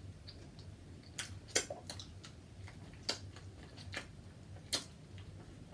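Close-miked eating sounds: about ten sharp, irregular clicks and smacks from a mouth chewing seafood.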